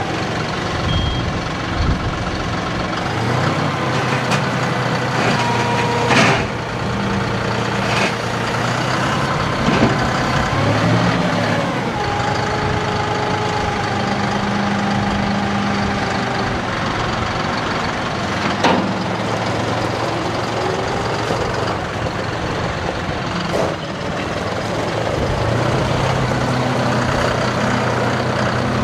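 John Deere 5075E tractor's three-cylinder turbo diesel engine running, its engine speed changing several times, with a few sharp clunks.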